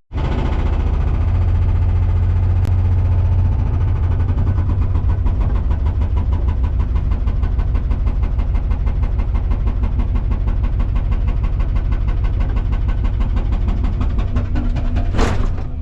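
Volvo 235EL excavator's diesel engine running steadily with a fine, even pulse. A short burst of noise comes about half a second before the end.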